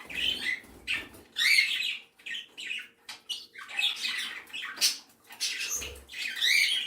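Mixed flock of pet birds, budgies, Bourke's parakeets and a canary, chirping and squawking in many short, separate calls with brief gaps between them.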